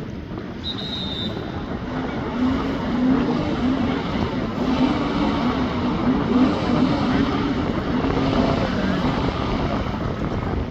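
Jet ski engine running hard, its pitch rising and falling as the throttle changes, over a rush of water and wind noise.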